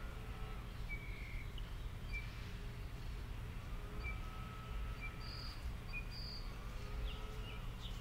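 Outdoor ambience: a steady low rumble with short bird chirps about once a second, and a quick run of chirps falling in pitch near the end.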